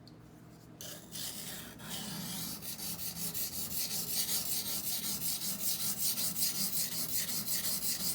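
Knife blade being stroked back and forth on a coarse 220-grit Norton water stone, a wet gritty scraping. It starts about a second in and settles into a quick, even rhythm of about three strokes a second, the coarse stone grinding away the factory grind marks.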